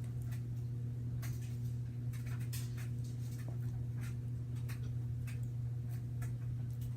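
Sticky homemade slime being kneaded and pulled by hand, giving irregular small clicks and squelches as it sticks to and peels off the fingers; the slime is still too sticky. A steady low hum sits under it throughout.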